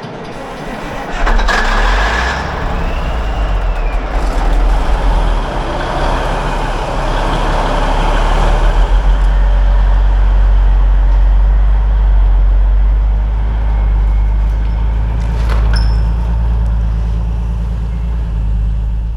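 Old tandem grain truck's engine running with a deep, steady rumble, getting sharply louder about a second in.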